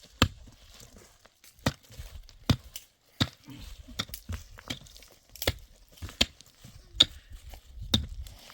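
A series of sharp knocks or cracks, irregular and roughly one or two a second, over a low rumble.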